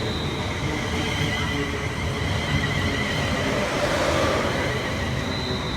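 Train running through the station: a steady rumble with a faint high whine over it.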